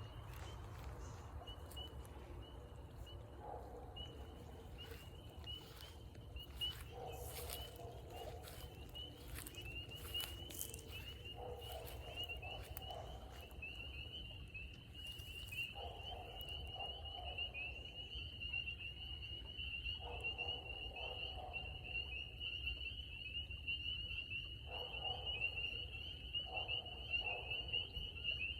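Chorus of spring peepers: a continuous high-pitched peeping that grows louder in the second half. A lower call of about a second repeats every few seconds, with scattered rustles and clicks in the first half.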